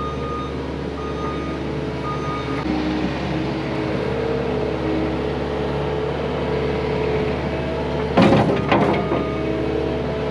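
Diesel engine of heavy equipment running steadily, with a reversing alarm beeping about once a second for the first couple of seconds. The engine note rises a little about two and a half seconds in. A loud burst of hissing comes near the end.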